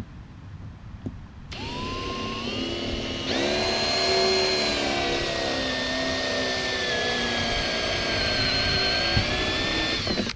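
Electric drill with a 1/2-inch bit boring through a plastic hard case: the motor spins up with a rising whine about a second and a half in, gets louder under load a couple of seconds later, runs steadily and stops suddenly near the end.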